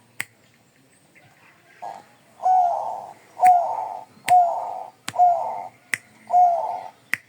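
Zebra dove (perkutut) cooing: after a short lull, a run of about five short coos roughly a second apart, starting about two seconds in. Sharp clicks fall between the coos.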